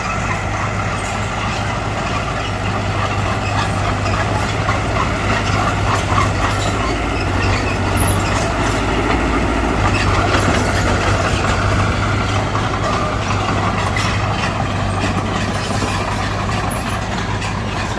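Heavy diesel earth-moving machinery running steadily under load, with scattered short clanks and rattles over the engine. It gets somewhat louder around the middle.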